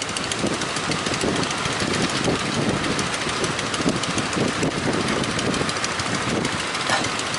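Fishing boat engine running steadily amid continuous wind and surf noise.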